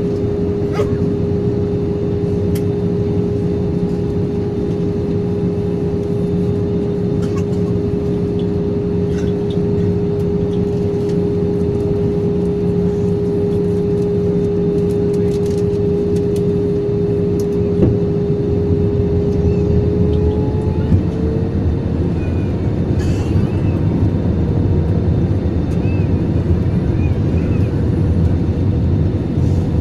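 Steady in-flight cabin noise of an Airbus A320-200: engine hum and airflow with a steady droning tone. About two-thirds of the way through, the tone rises slightly in pitch and settles higher, a change in engine power during the descent.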